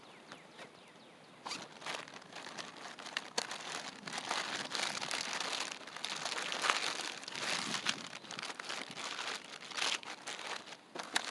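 Plastic bags crinkling and rustling as hands rummage through a bag of fishing lures, in irregular crackles.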